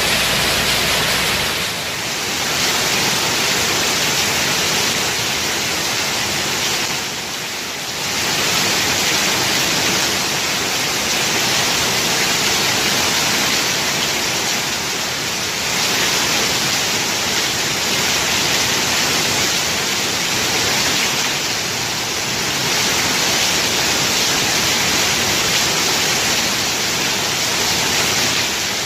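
Heavy rain pouring down steadily, a dense even hiss that eases briefly about two seconds and again about seven seconds in.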